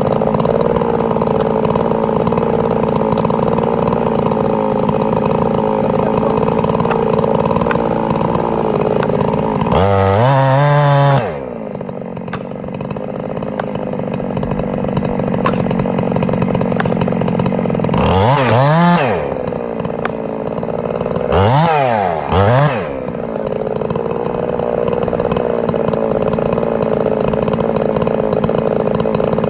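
Two-stroke chainsaw cutting steadily under load, revving up and dropping back about a third of the way in, again past the middle, and twice in quick succession a little later.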